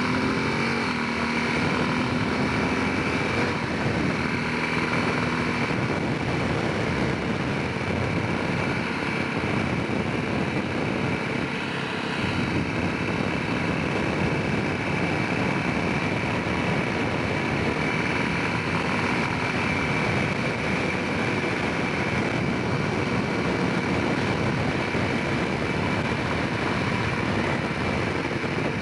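Honda Rincon 650 quad's single-cylinder engine running under way, its pitch rising just before the start and then holding steady, under a dense steady rushing noise.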